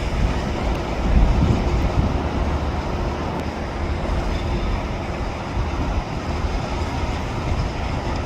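Freight train cars rolling past on the rails: a steady low rumble of wheels and cars going by.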